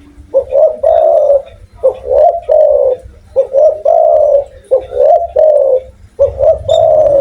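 Spotted dove cooing: five repeated phrases, each a couple of short rising notes followed by a longer, slightly falling coo, about one phrase every one and a half seconds.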